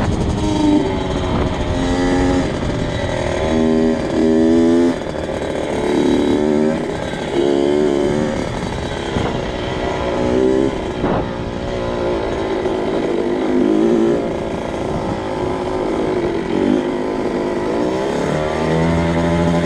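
2002 Kawasaki KX 65 dirt bike's small two-stroke single-cylinder engine being ridden, its revs rising and falling again and again with throttle changes. Near the end it settles into a steadier, lower-pitched run.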